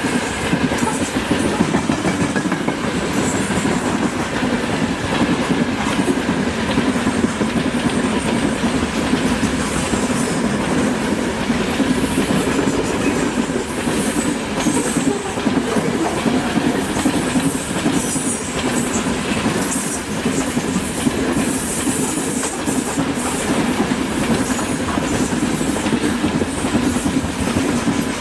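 Russian freight train's wagons rolling past in a steady rumble and clatter of steel wheels on rail, with brief faint high squeals from the wheels now and then.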